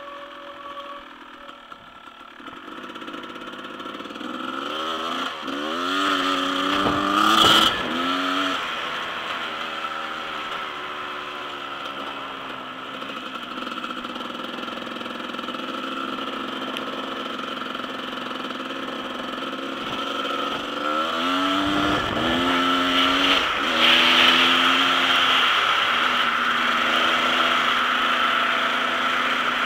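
Dirt bike engine accelerating, its pitch climbing and dropping in steps as it shifts through the gears, twice: once a few seconds in and again past the middle. A steady rushing hiss runs underneath.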